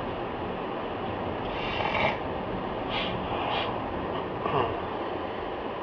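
Steady road and driving noise as picked up by a car's dash camera, with a few brief rasping sounds about two, three and four and a half seconds in.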